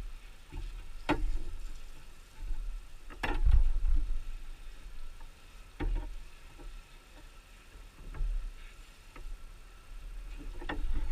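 A handful of sharp knocks and clicks, each a couple of seconds apart, over a low rumble.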